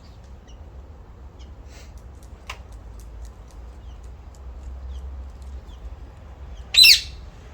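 Small birds chirping faintly now and then, then one loud, brief bird call close by near the end.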